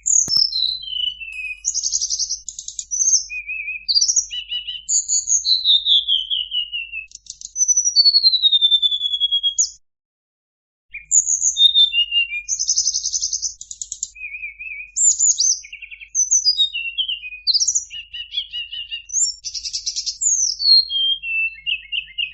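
A tledekan gunung (mountain flycatcher) singing loud, high-pitched phrases of falling whistled slurs mixed with short buzzy trills. The song breaks off for about a second near the middle, then resumes. It is a recording used as a masteran, a lure to set caged songbirds singing.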